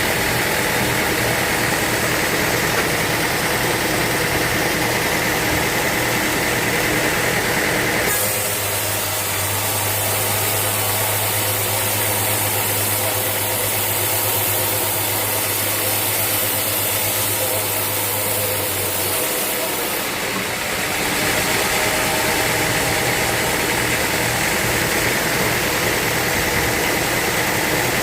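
Sawmill machinery running steadily. The sound changes abruptly about eight seconds in, with a high hiss and a steady low hum, and changes back about twenty seconds in.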